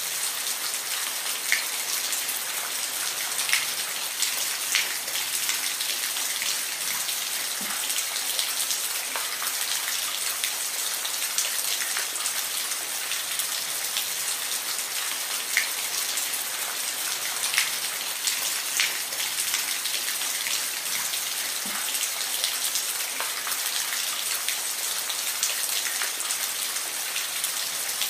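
Steady rain falling, a dense even hiss with individual drops ticking sharply here and there on a hard surface.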